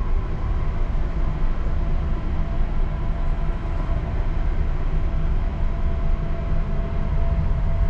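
Ship's engines running with a steady low drone and a constant hum, heard on board the vessel while it manoeuvres.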